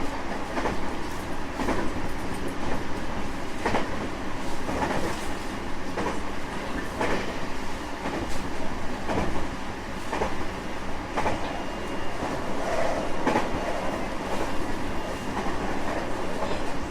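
JR West 225 series 5000 subseries electric multiple unit running at speed: a steady rumble with wheels clicking over rail joints, roughly once a second.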